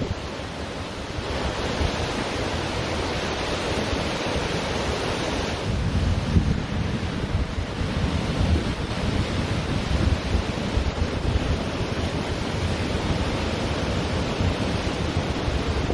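Ocean surf washing steadily onto a beach, with wind buffeting the microphone in a low, fluttering rumble.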